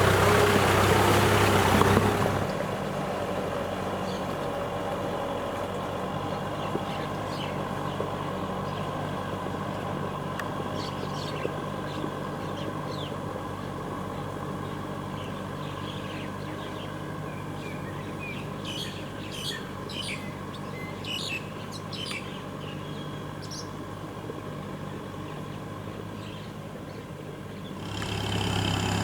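Kubota M6040SU tractor's four-cylinder diesel engine running steadily, louder for the first two seconds and again near the end, quieter in between. Birds chirp over the quieter stretch.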